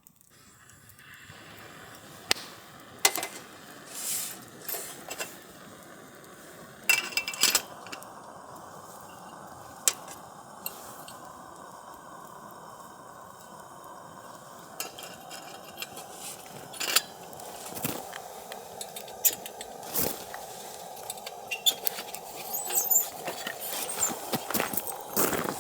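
Camp tableware and utensils clinking, knocking and scraping in short bursts over a steady hiss.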